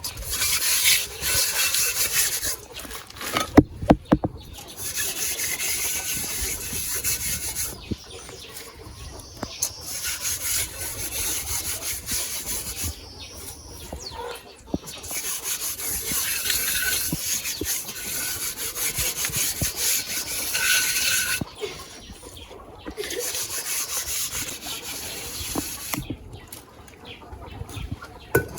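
Rasping scraping in long stretches of a few seconds each, with short pauses between them and a few sharp knocks about four seconds in.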